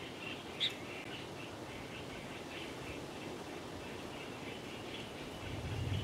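Small birds chirping: a steady run of short, high twittering notes, with one sharper chirp about half a second in. A low rumble comes in near the end.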